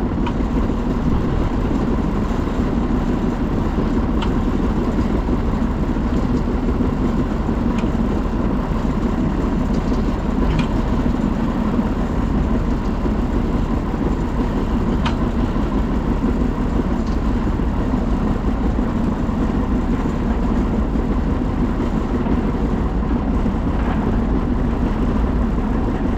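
Farm tractor running steadily under load while pulling a hay tedder.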